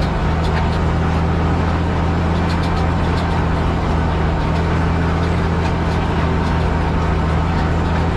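Same Titan 160 tractor engine running steadily at a constant speed, with faint light ticking mixed in.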